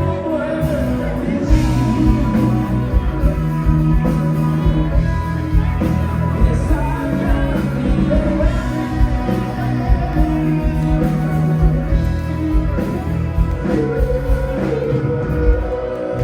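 A live singer and band performing a rock song, loud, with a steady drum beat under the sung melody.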